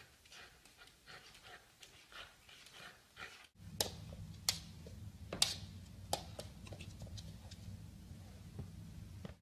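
A dog panting softly in quick, even breaths. After a cut about three and a half seconds in comes a steady low hum with scattered sharp clicks and taps.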